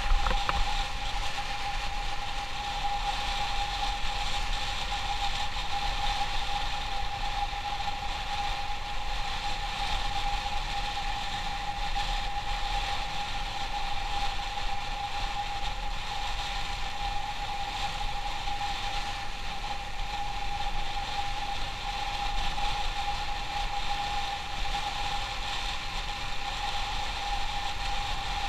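Motorcycle engine running at a steady speed, a constant hum with one held tone over a low rumble. There is a short knock right at the start.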